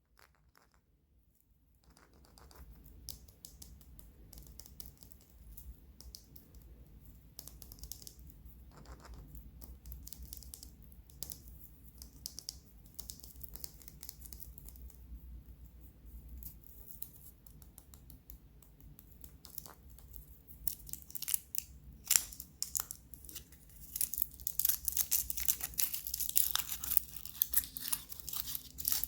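A surprise-egg or candy wrapper being crinkled and torn open by hand: a run of small crackles and rustles that grows denser and louder in the last few seconds, over a faint low hum.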